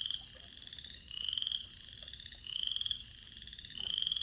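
Frogs calling: a pulsed trill about half a second long, repeated three or four times at steady intervals of just over a second.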